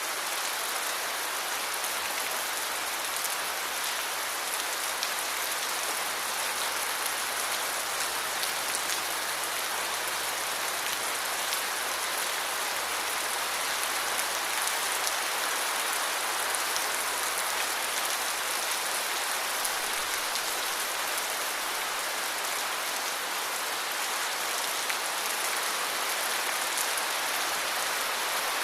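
Steady heavy rain, a dense even hiss of drops falling on a surface, with scattered individual drop ticks.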